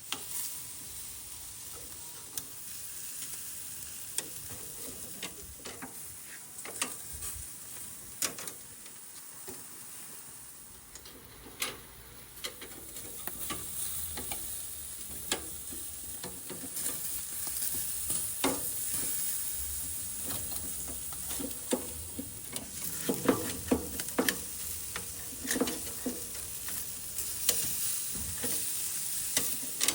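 Meat sizzling over charcoal on a mangal grill, with frequent sharp pops and crackles; the sizzle grows louder in the second half.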